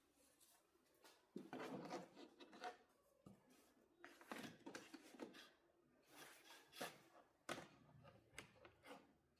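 Faint, scattered handling noises in a small room: short scrapes, clicks and rustles in several brief clusters, the sound of hands working with tools and parts.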